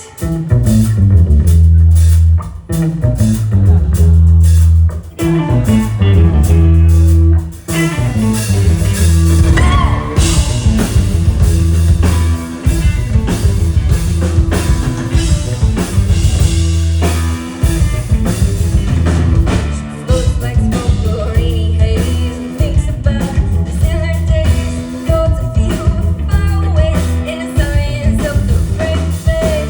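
Live rock band playing an instrumental passage between sung lines. Heavy, held low bass and guitar notes come with short breaks, then drums and guitar come in at full tilt about eight seconds in.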